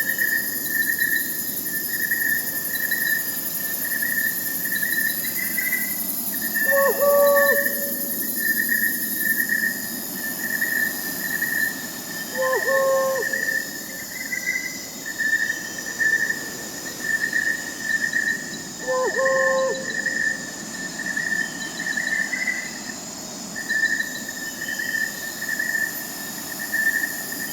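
Crickets chirping in a steady, fast-pulsing high trill, with an owl giving a short low hoot about every six seconds, four times, over a faint night-forest hiss.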